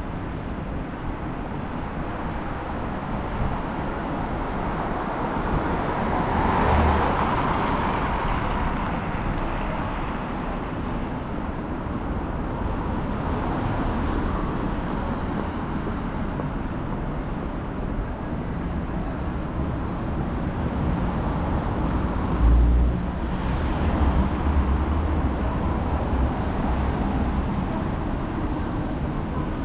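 City street traffic noise: cars passing steadily, with one vehicle swelling louder about a quarter of the way in and another run of passing traffic later on. There is a brief low thump about three-quarters of the way through.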